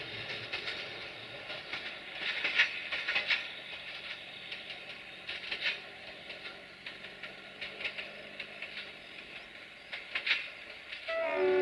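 Passenger train coaches rolling away on jointed track, their wheels clicking over the rail joints over a steady rumble. Near the end the train's diesel locomotive sounds its horn, a chord of several steady tones.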